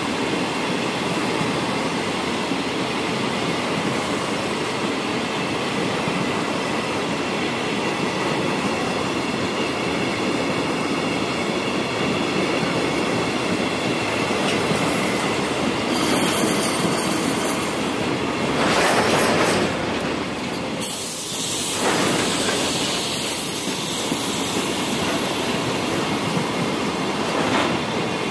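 A long freight train of Hoki 10000 coal hopper wagons rolling past, with a steady rumble and clatter of wheels on the rails. Sharper high-pitched squeals from the wheels come and go about two-thirds of the way through.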